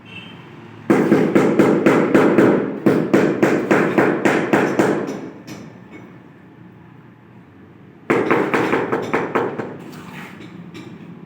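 Rapid tapping on a large floor tile, about four or five knocks a second, in two runs of a few seconds each: a mallet bedding the tile into its mortar.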